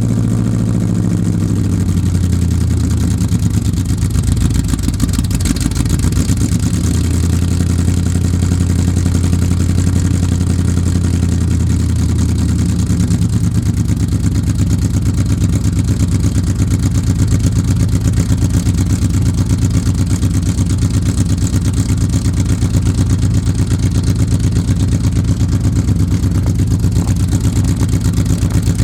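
1967 Chevrolet Chevelle engine idling cold, soon after a cold start. The idle settles lower in the first second or two and then holds steady, with a slight change in note partway through.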